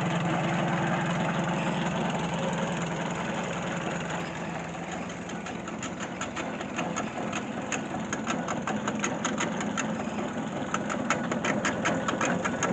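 Tractor engine running steadily, belt-driving a corn feed grinder. From about halfway, a rapid irregular clicking and rattling joins the engine hum.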